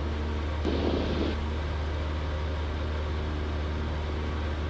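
Cessna 172's engine and propeller droning steadily in a climb, heard through the cockpit headset intercom. A brief rush of noise cuts in about a second in.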